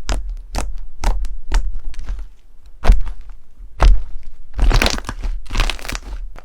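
Slime being pressed and squeezed close to the microphone, giving crisp crackles and crunches: quick snaps about twice a second, then two louder single cracks, then a dense run of crackling near the end.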